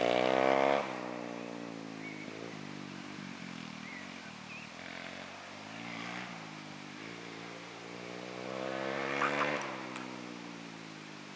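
Orion dirt bike engine under way, its pitch climbing and dropping as the throttle is opened and closed. It is loudest at the start and again about nine seconds in.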